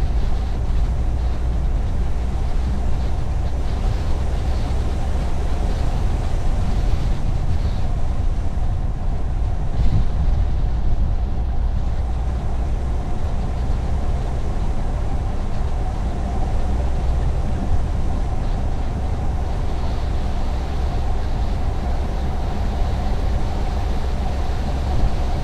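Car driving at road speed: a steady low rumble of engine and tyre noise with a faint steady hum, and a brief bump about ten seconds in.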